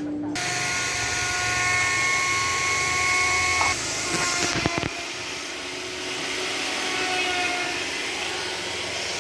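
Power tool working on a motorcycle exhaust silencer: a steady whine over a hiss that stops almost four seconds in, followed by a few knocks, then a steadier hiss.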